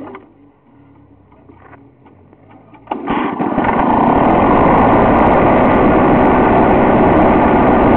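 Lawn-Boy two-stroke lawnmower engine on a cold start. It catches about three seconds in and settles into a steady run.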